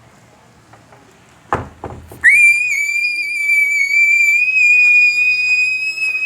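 A short knock or clatter, then a loud, steady, high-pitched whistling tone that starts about two seconds in and holds, rising slightly in pitch.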